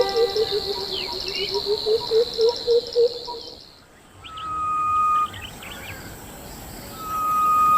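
Wild birdsong and insects: a quick run of low hooting notes under a high insect buzz that stops about three and a half seconds in. After a short lull comes a long steady whistled bird note, and a second one near the end.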